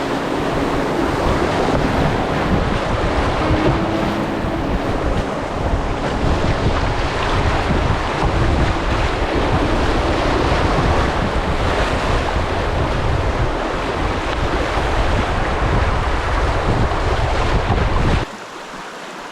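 Wind buffeting the microphone over rushing river water; the noise cuts off abruptly near the end.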